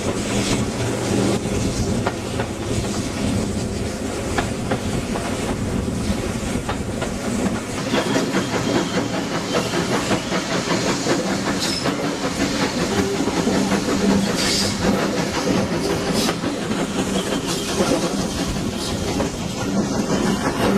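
A heritage railway train running along the line, its wheels clicking over the rail joints in a steady rattle.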